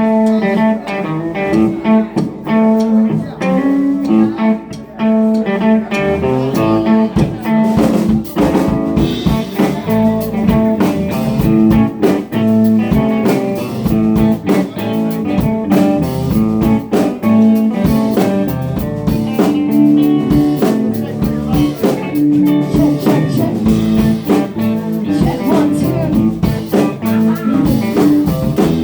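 Live band playing a blues jam with electric guitars, bass and drums, the drums joining in more fully about six seconds in.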